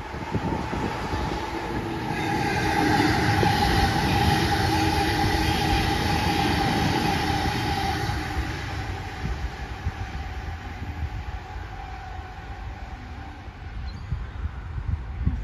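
Sydney Trains electric train passing on the Western Line, its rail and wheel noise swelling to a peak a few seconds in and then fading away, with a steady whine running through the loudest part.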